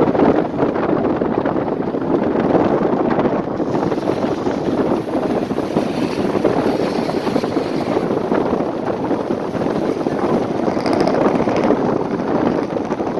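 Steady wind rushing over the microphone, with the running noise of the moving vehicle.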